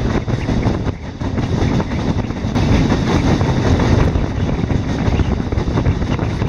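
Passenger train running at speed, heard from the open doorway of a coach: a loud, steady rolling noise of wheels on the rails.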